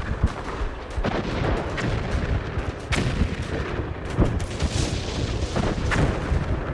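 Artillery guns firing: irregular sharp reports, roughly one every half second to a second, over a continuous low rumble. The audio is a reconstruction from WW1 sound-ranging film of the guns on the front just before the armistice.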